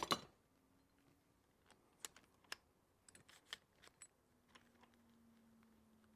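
A sharp click, then sparse light clicks and taps of metal tools being handled, with a faint steady hum in the second half.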